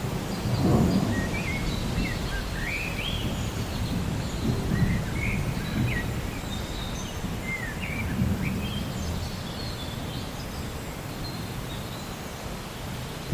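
Steady rain with a low rumbling that swells a few times, and small birds chirping short rising and falling notes throughout.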